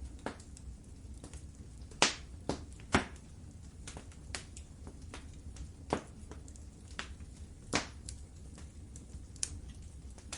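Wood fire in a fireplace crackling, with irregular sharp pops over a low steady rumble; the loudest pops come about two and three seconds in and again near eight seconds.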